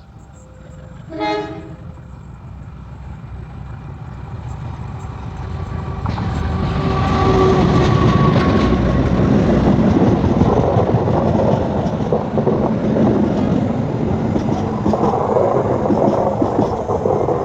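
KAI CC206 diesel-electric locomotive sounding a short horn blast about a second in, then approaching and running by with its engine and rail noise building to a loud, steady rumble over the next several seconds.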